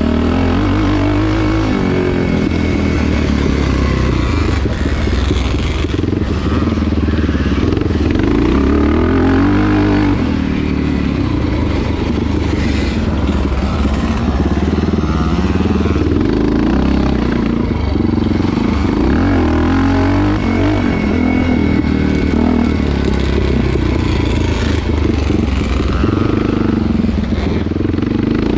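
Motocross motorcycle engine running hard throughout, its pitch rising and falling again and again as the throttle is opened and shut.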